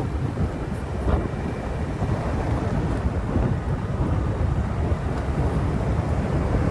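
Motorbike riding along a road: a steady low rumble of wind buffeting the microphone over engine and tyre noise.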